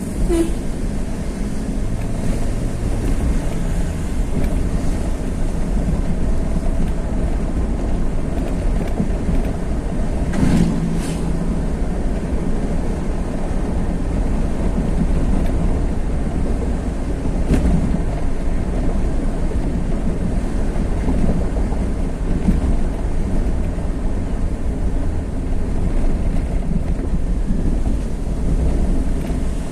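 Steady rumble of a vehicle on the move with wind buffeting the microphone, and a few brief knocks about ten seconds in and again a little later.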